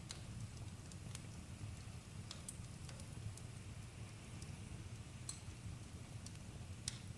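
Campfire crackling: irregular sharp pops and ticks, about a dozen, over a low steady rumble.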